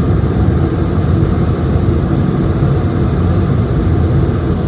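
Steady low cabin roar inside an Airbus A220-100 airliner, from its engines and the airflow over the fuselage, even and unbroken.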